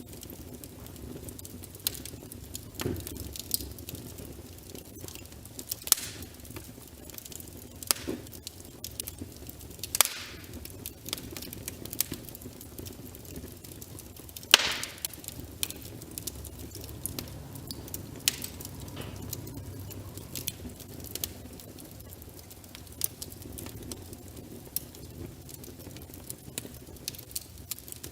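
Log fire in a fireplace crackling: irregular sharp pops and snaps over a steady low rush of burning wood, with one louder pop about halfway through.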